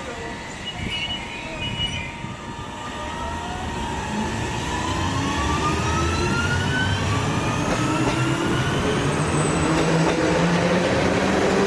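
SL X60 electric commuter train accelerating: its traction motors give several rising whines that climb in pitch together, over a wheel and track rumble that grows louder.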